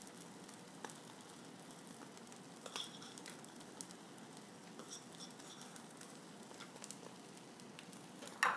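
Omelet eggs sizzling faintly in a nonstick frying pan over low heat, a steady soft hiss, with scattered light ticks as chopped onion is sprinkled in by hand.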